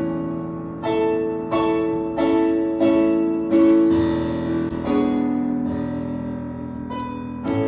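Piano music: chords struck about every two-thirds of a second, each ringing on, then slower, longer-held chords in the second half.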